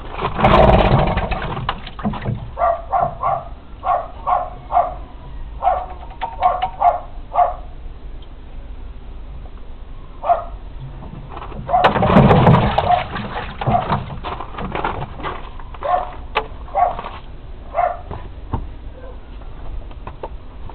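A dog barking in series of short barks, a few a second at times. There are also two louder, rougher bursts about a second long, one at the start and one about twelve seconds in.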